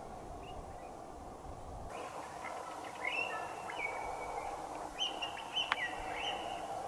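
A bird singing short whistled phrases, starting about three seconds in and again about five seconds in, over a steady background hum, with one sharp click between the phrases.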